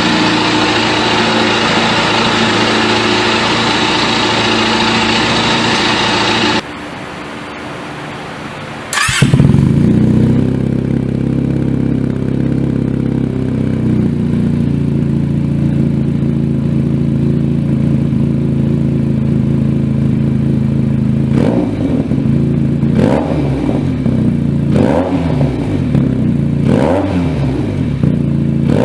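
Benelli TNT300 parallel-twin motorcycle engine with a loud aftermarket exhaust: running steadily, then a quieter stretch, then starting up sharply about nine seconds in and settling to an idle. Over the last seven seconds it is blipped four or five times, each rev rising and falling.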